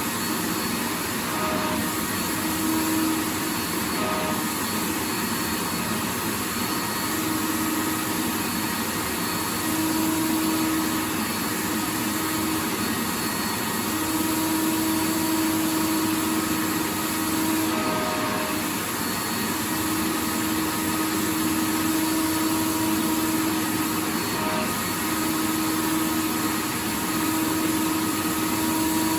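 Vacuum cleaner running continuously: a steady rush of air with a faint motor hum that swells and fades every few seconds.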